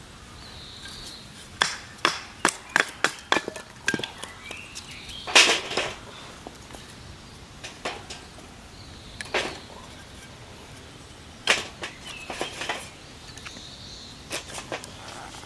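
Irregular sharp knocks and snaps, a quick run of them in the first few seconds and then scattered ones, against an outdoor background with a few faint high bird calls.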